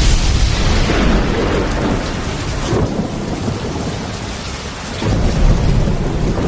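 Thunderstorm: heavy rain falling with rolling thunder rumbling underneath, the rumble easing in the middle and swelling again about five seconds in.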